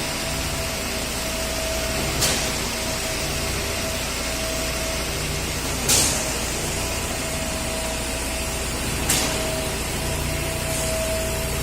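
Putzmeister truck-mounted concrete boom pump running steadily while pumping, with a sharp clack three times, about every three to four seconds, as the pump cylinders change stroke.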